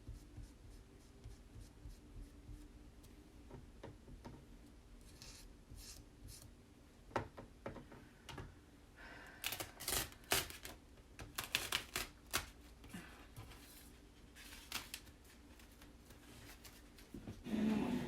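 Handling of an adhesive Chalk Couture transfer and tools on a craft table: scattered clicks and taps with short crackly rustling strokes, busiest in the middle, and a louder brief rustle near the end.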